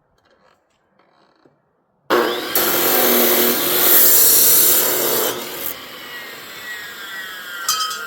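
Electric power saw cutting through wood: it starts suddenly about two seconds in, cuts for about three seconds, then the motor winds down with a falling whine after the trigger is released.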